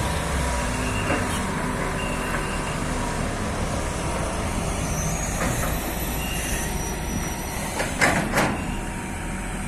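Hydraulic excavator running steadily, with faint squeals and two louder sharp clanks about eight seconds in.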